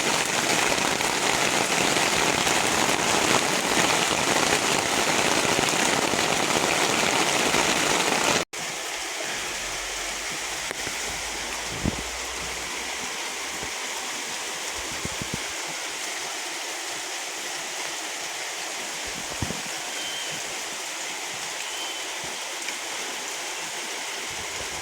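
Heavy rain falling steadily during a thunderstorm. About eight seconds in it cuts off abruptly and gives way to quieter, lighter rain with occasional single drips.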